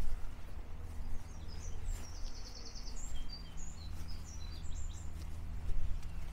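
A small songbird singing outdoors: a string of short high chirps with a quick trill of rapid repeated notes about two seconds in. Underneath runs a steady low rumble, with faint footstep knocks about once a second.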